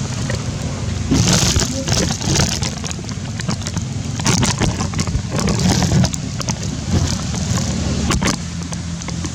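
A steady low motor hum, with scattered crackles and rustling noises over it.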